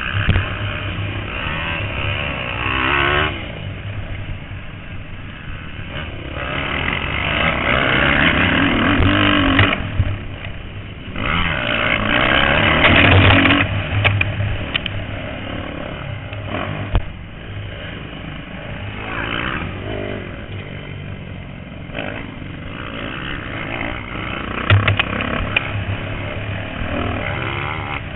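Motocross bike engines revving up and down on the track, with the loudest surges about seven to thirteen seconds in.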